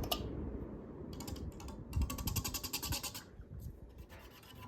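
Beaded pull chain of a ceiling fan being worked: two runs of rapid small clicks and rattles as the chain runs through the switch housing, over the low rumble of the fan running.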